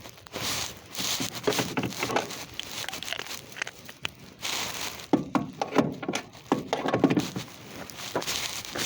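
Irregular rustling, clicks and knocks from someone shifting about on the ground and handling tools and car parts, densest a few seconds in.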